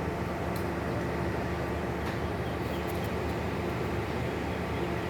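Steady rumble and hum of a train, heard from on board.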